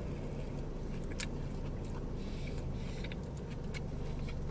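Chewing a mouthful of toasted sub sandwich with crunchy bread: a handful of short crunches over a steady low hum inside a car cabin.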